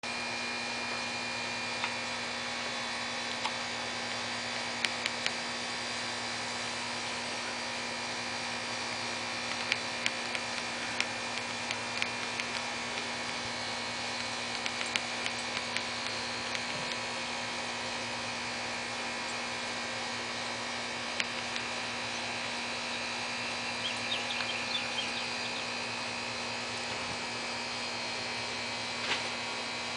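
A steady hum made of several fixed tones, with scattered faint clicks and, late on, a short flurry of high ticks.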